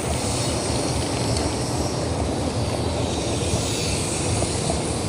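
Steady wind rush buffeting the camera microphone while riding a bicycle, with a low rumble underneath.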